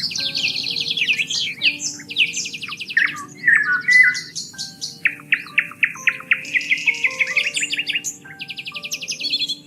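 Several songbirds singing in fast trills and chirps, one after another, over soft background music of long held notes.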